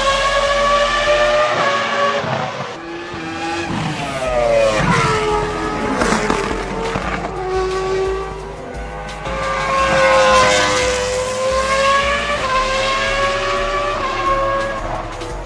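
Track-prepped Honda NSX V6 with individual throttle bodies revving hard on track. Its pitch holds high, drops steeply about five seconds in, then climbs and eases off again.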